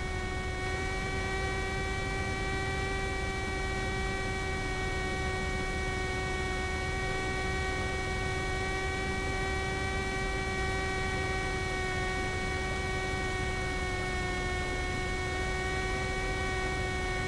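Steady electrical whine in a light aircraft's cockpit audio feed: one held tone with a row of evenly spaced overtones, over a low rumble of engine and cabin noise. It is interference from a faulty audio-recorder cable.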